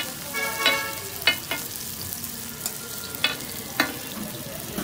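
Aloo tikkis sizzling on a large flat griddle, with a metal spatula clanking and scraping against the griddle several times as they are pressed and turned.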